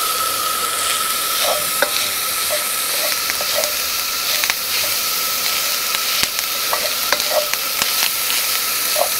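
Diced bacon sizzling in a hot wok over a gas burner, with irregular clinks and scrapes of a metal spatula against the wok as it is stirred. A thin steady high tone sits under the sizzle.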